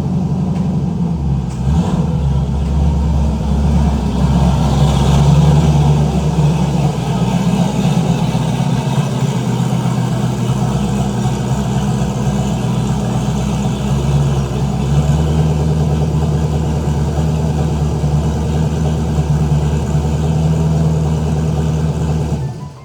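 Turbocharged LS V8 of a third-generation Camaro IROC-Z running at low speed with a steady, loud rumble. It swells slightly a few seconds in and cuts off abruptly near the end.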